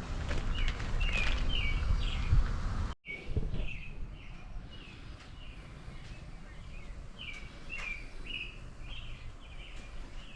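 A bird chirping over and over in short, high notes, about two a second. For the first three seconds a low rumble of wind on the microphone sits under it, then the sound cuts out for an instant.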